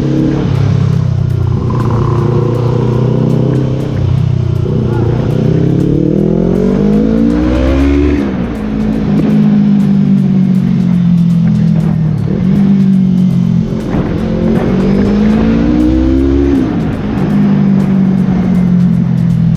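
Yamaha R3 motorcycle engine idling through its exhaust silencer, revved twice. Each rev climbs in pitch for about two seconds, then drops sharply back to idle.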